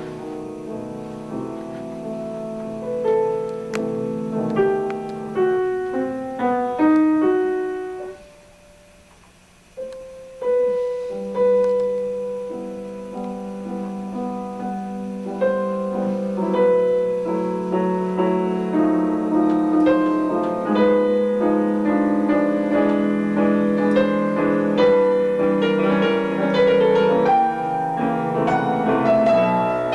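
A piano being played. About eight seconds in it stops for a couple of seconds, then the playing resumes and grows fuller.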